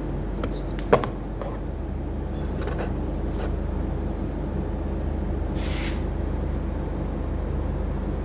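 Renault DXi 11 diesel engine running steadily. A sharp click comes about a second in, and a short hiss about five and a half seconds in.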